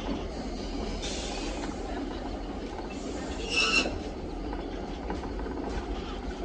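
Cairns–Kuranda scenic train running along the track with a steady low rumble and clatter. A brief high-pitched wheel squeal comes about three and a half seconds in.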